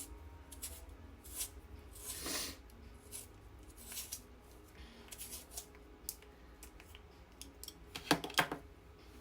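Brief, irregular scraping and rustling of a lip liner pencil being handled, with a stronger cluster about eight seconds in, over a low steady room hum.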